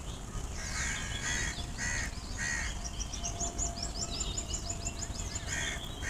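Wild birds calling: a run of short repeated calls about twice a second in the first half, then a fast run of quick high chirps in the middle, and a few more calls near the end.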